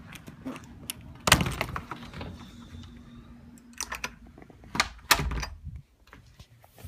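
A few sharp knocks and clicks, with two louder thuds about a second in and about five seconds in, like objects being handled or set down.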